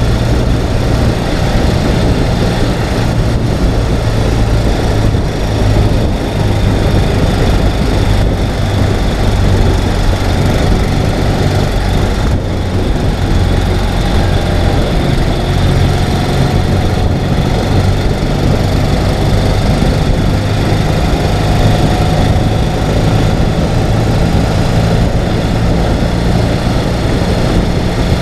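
Ural sidecar motorcycle's air-cooled flat-twin engine running steadily while riding, with a steady rushing noise over it.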